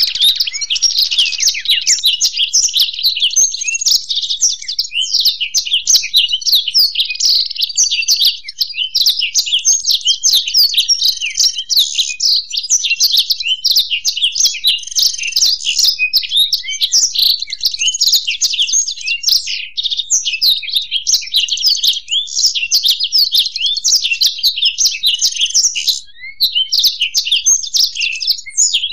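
Black-throated canary and European goldfinch singing together: a continuous, rapid run of twittering chirps and trills with hardly a pause, breaking off only briefly near the end.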